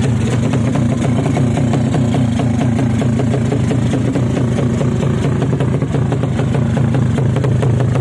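Drag-racing motorcycle engine running steadily at idle, with a fast, even firing pulse and no clear revs.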